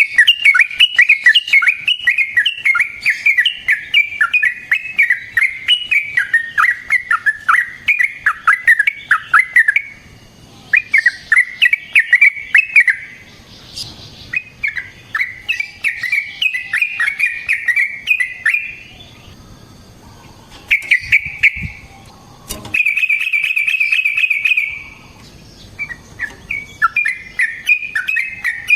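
Yellow-vented bulbul singing long runs of fast, bubbly chattering notes, broken by a few short pauses. Near the end comes an even, rapid trill.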